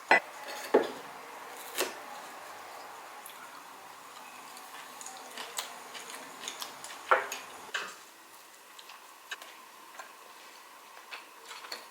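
Dishes and cutlery being handled: three sharp clinks in the first two seconds, two more about seven seconds in, and lighter taps and ticks between.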